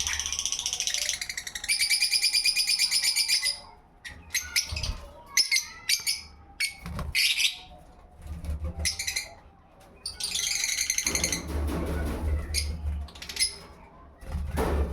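Small pet parrot singing: fast pulsing trills for the first few seconds and again about ten seconds in, with scattered short chirps and whistles in between.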